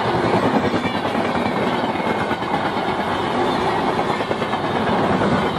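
Indian Railways passenger coaches running along the track: a steady rumble and rattle of wheels on the rails.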